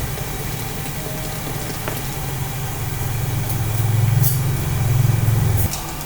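A steady low engine-like rumble that grows louder from about three seconds in, with a few faint clicks.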